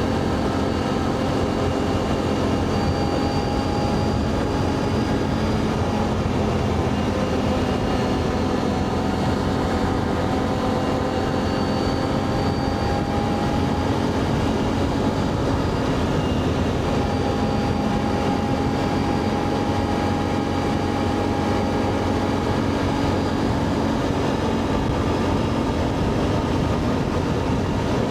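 ATV engine running steadily while riding along, its pitch drifting gently up and down with speed.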